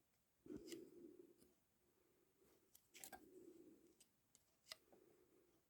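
Faint handling sounds of clutch plates being measured: three soft clicks, each followed by a brief scrape, about half a second, three seconds and nearly five seconds in.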